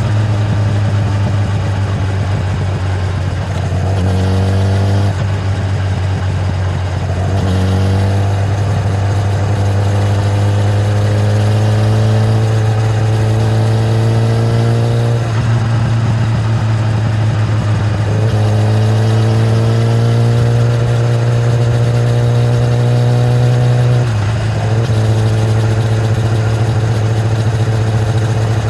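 Kawasaki ZX-10R's inline-four engine through its stock exhaust, pulling in long steady climbs of engine speed under acceleration. The pitch drops sharply at gear changes several times, about 5, 15, 18 and 24 seconds in, before climbing again.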